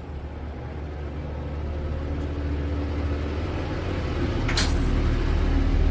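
A motor running steadily with a low hum that grows louder, and a short hiss of air about four and a half seconds in.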